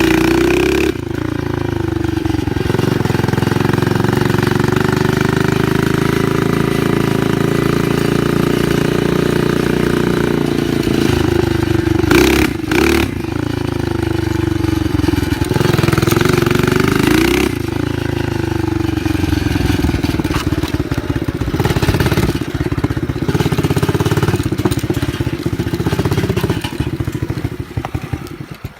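Old Yamaha 125 dirt bike engine running loud through a blown muffler while being ridden, its pitch rising and falling as the throttle is opened and eased off. The sound drops away near the end.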